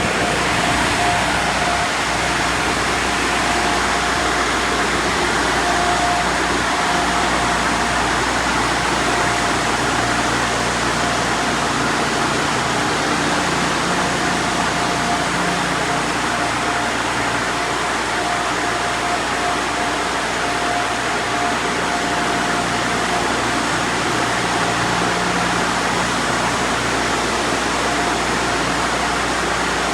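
Dryer blowers of a LaserWash G5 touchless car wash blowing air over the car, heard from inside the cabin: a loud, steady rushing with a constant whine.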